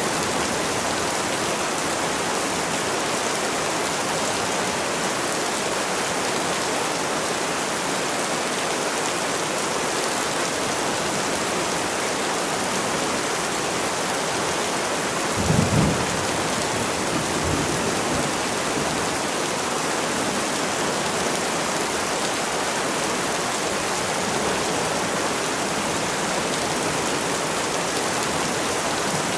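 Steady rain falling. About halfway through comes a short low rumble, with a fainter one about two seconds later.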